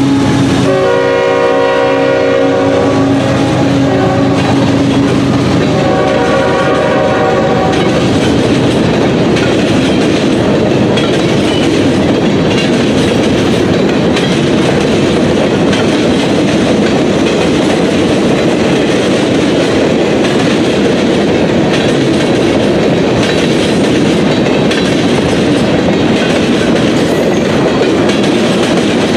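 Diesel freight locomotive's air horn sounding two blasts in a chord of several tones, a longer one then a shorter one. The rest is the steady rumble and wheel clatter of a freight train rolling past.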